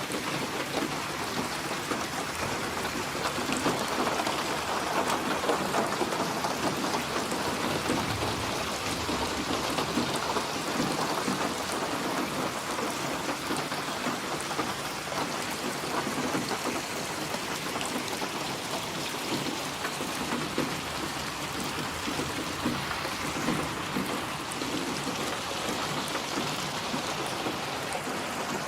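Steady rain falling and pattering on surfaces. A low rumble of thunder swells in the first third.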